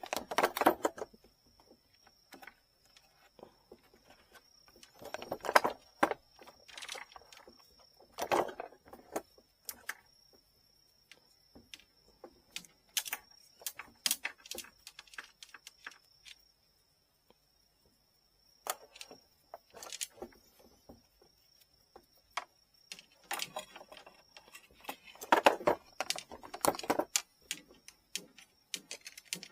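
Small clicks, taps and rustling of hand work on a bamboo rod tip and tools at a bench, coming in bursts with quiet gaps between, over a faint steady high whine.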